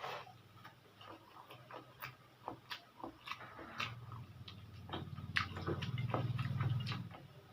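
Close-miked mouth sounds of eating spicy pancit canton: irregular wet clicks and smacks from chewing noodles. A deep hum grows louder about five seconds in and fades near the end.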